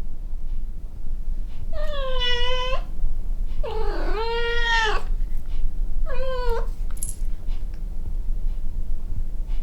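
A cat meowing three times: a short call, then a longer one, then a brief one. A steady low hum runs underneath.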